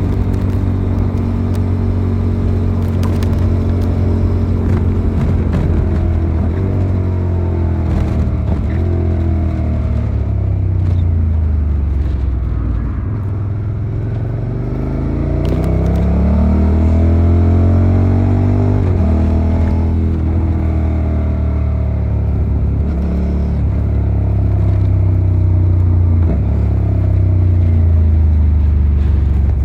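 Suzuki SV650 90-degree V-twin engine heard onboard while riding. It holds a steady note for the first few seconds, then drops and climbs in pitch several times as the bike slows and accelerates through the revs.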